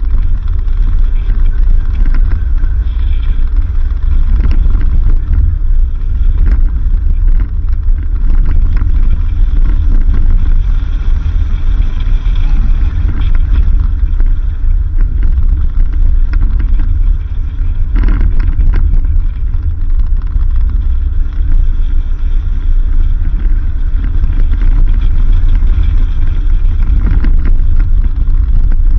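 A 4x4 vehicle driving on a dirt road: a steady, heavy low rumble of engine and tyres, with scattered knocks and rattles from the rough surface.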